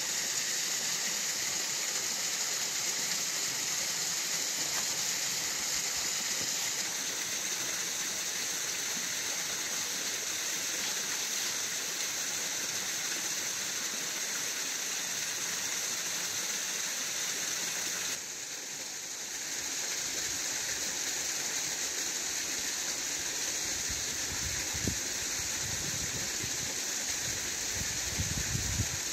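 Steady rush of a waterfall and stream over rocks, an even hiss that drops briefly about two-thirds of the way in. Low bumps and thuds come in near the end.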